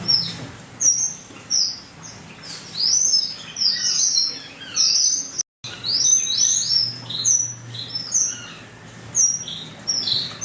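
A flock of aviary finches chirping: many short, high, quick notes overlapping, from several birds at once. The sound cuts out for a split second about five and a half seconds in.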